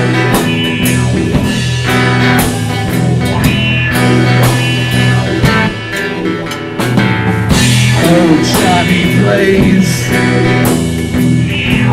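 Rock band playing: electric guitar and drum kit over a steady, heavy low end.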